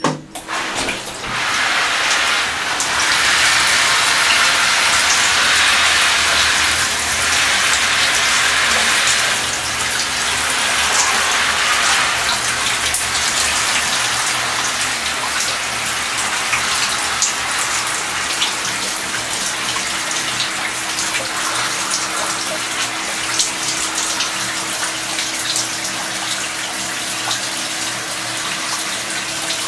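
Running water, turned on right at the start and then rushing and hissing steadily, like a shower or tap at full flow. A faint steady low hum lies underneath it.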